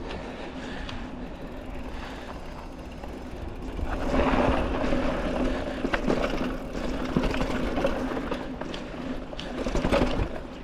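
Mountain bike on tubeless tires rolling along a dirt trail: tire noise and the bike rattling over the ground, with scattered knocks, louder from about four seconds in.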